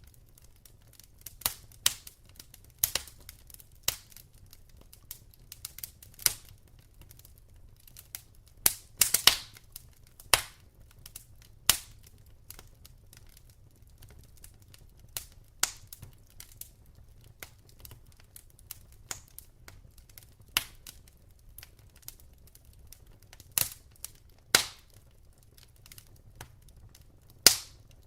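Wood logs crackling in a fireplace: irregular sharp pops and snaps at uneven intervals, with a cluster of loud pops about nine seconds in and another strong pop near the end, over a faint low rumble.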